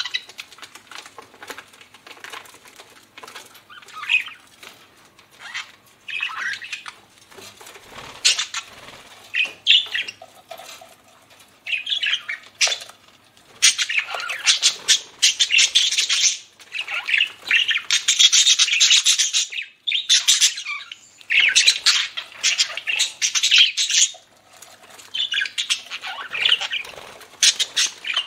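Budgerigars chattering in bouts of a few seconds: rapid, high-pitched warbling and chirping with short quieter gaps between bouts.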